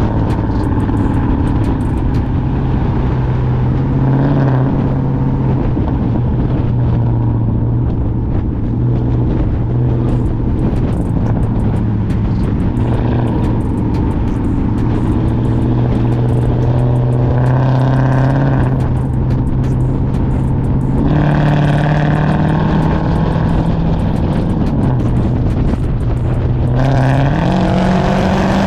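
Cammed Chrysler 300C Hemi V8 through a catless straight-pipe exhaust, cruising at steady low revs with a few short climbs in engine speed, the last near the end.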